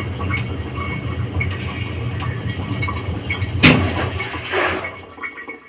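Whirlpool top-load washing machine running with a low steady hum, a sharp click about three and a half seconds in, and the hum dropping away near the end.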